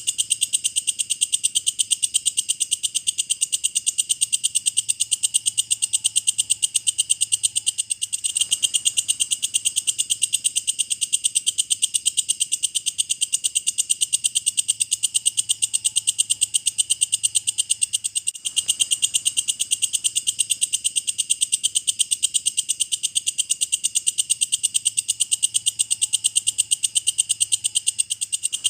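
Walang kecek insect calling: a rapid, even train of high-pitched chirping pulses that goes on without letting up, with brief breaks about 8 and 18 seconds in.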